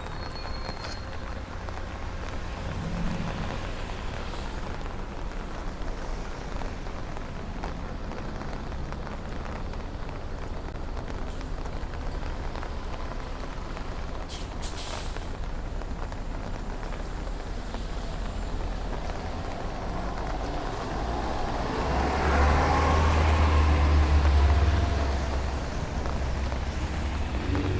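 City street traffic in the rain: a steady wash of passing cars and tyre noise. A heavy vehicle goes by close about twenty-two seconds in, swelling loudly for a few seconds before fading.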